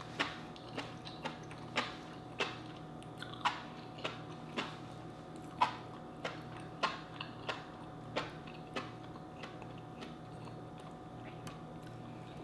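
Close-miked chewing of vegetables: irregular crisp, wet mouth clicks and smacks, about one every half second to a second, thinning out in the last few seconds.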